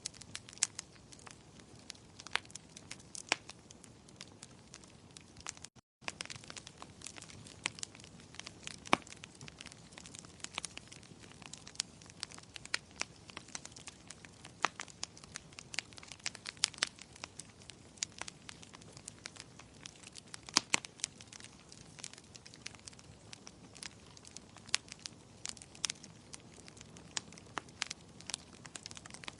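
Wood fire crackling in a fireplace: irregular sharp pops and snaps over a soft, steady background hiss, with a brief gap about six seconds in.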